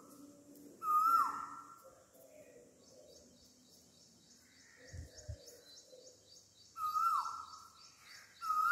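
Birds calling: a short whistled note that holds briefly and then drops sharply, repeated three times (about a second in, then twice near the end), over a fainter fast high chirping at about four a second.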